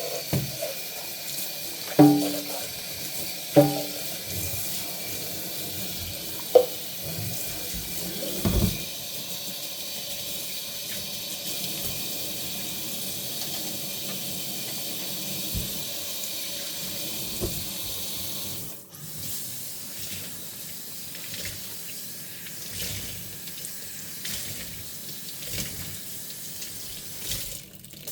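Kitchen tap running into a sink while dishes are washed by hand, with several ringing clinks of dishes against each other in the first nine seconds. About two-thirds of the way through the water sound breaks off briefly and carries on quieter.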